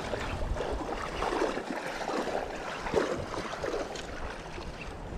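Shallow creek water splashing and lapping in small, irregular splashes.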